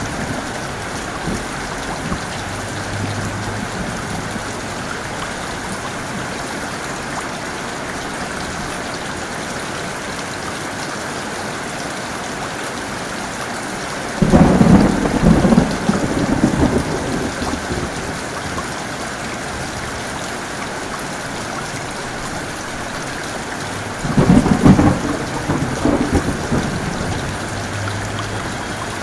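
Heavy rain falling steadily, with two loud rumbling claps of thunder lasting a few seconds each, one about halfway through and one near the end.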